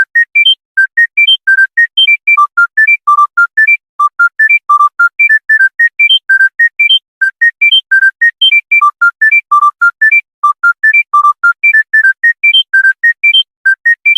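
Mobile phone ringtone: a fast melody of short, clean electronic beeps, about six notes a second, hopping up and down in pitch. The phrase repeats about every three seconds with a brief pause between repeats.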